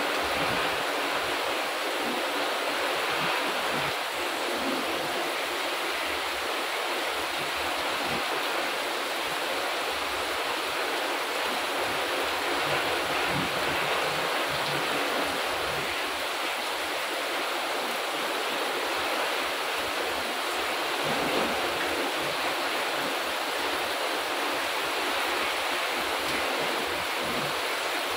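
Heavy rain pouring steadily on plants, a wall and paved ground: a dense, even hiss that neither builds nor breaks, with no thunder.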